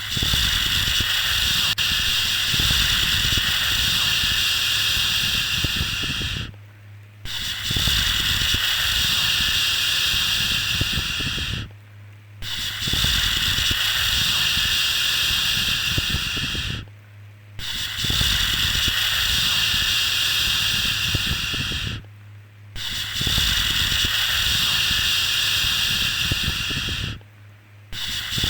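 Repeated long 'shhh' shushing sounds for soothing a baby to sleep, each lasting about five seconds with a short pause between them. A faint low hum runs underneath.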